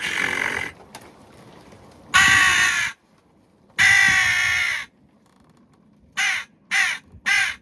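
Hand-made wooden crow call blown with a rolled tongue, giving raspy crow caws: a short caw, two long drawn-out caws, then three short quick caws in a row near the end.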